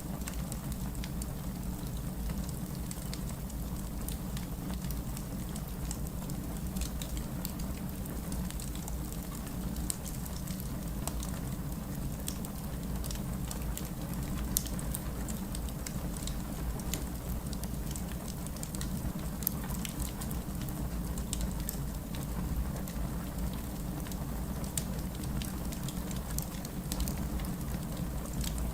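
Steady rain falling, mixed with the crackling of a wood fire: scattered sharp crackles over an even rushing hiss.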